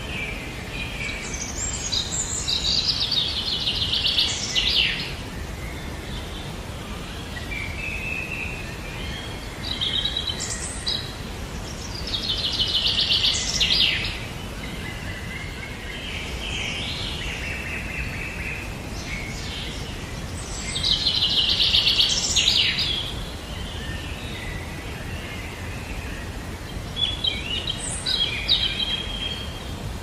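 Birds calling over a steady low background noise. Three loud bursts of rapid, high chattering notes, each lasting a couple of seconds, come about two seconds in, near the middle and about two-thirds of the way through, with softer calls in between.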